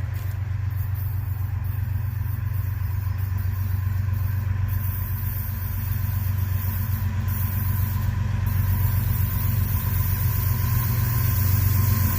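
Diesel locomotives hauling an empty coal train, their engines running steadily with a deep drone that slowly grows louder as the train draws near.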